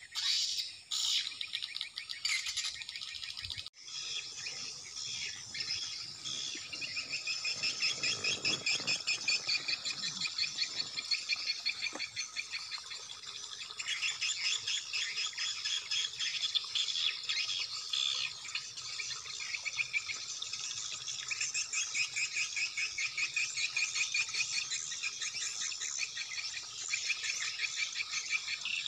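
Dense, continuous twittering of swiftlet calls, rapid high chirps in quick repeating trains, with a brief break about four seconds in.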